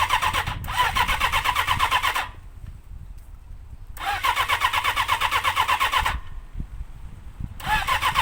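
Motorcycle electric starter cranking the engine in repeated bursts of about two seconds with a fast, even chug, stopping between tries; the engine does not catch, a bike that won't start and has something wrong with it. A low wind rumble on the microphone runs underneath.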